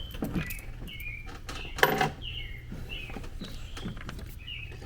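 A bird chirping repeatedly in short falling notes. A sharp click about two seconds in, with a few fainter clicks around it, is the loudest sound.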